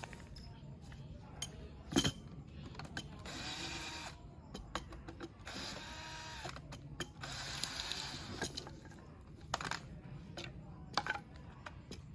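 Parts of an overland kitchen box being handled during disassembly: scattered clicks and knocks, with three longer scraping slides of a few seconds each.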